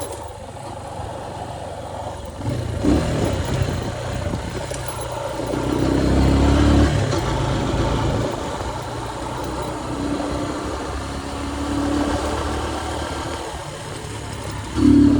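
Motorcycle riding on the road: a steady engine hum under wind rush, with the engine note rising and swelling a few times as the throttle opens or traffic passes.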